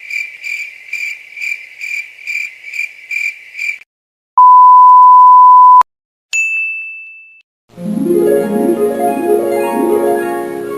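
A string of editing sound effects: a cricket chirping about twice a second for nearly four seconds, then a loud steady censor bleep, then a single bright ding that fades away, and finally a plucked harp-like melody that starts near the end.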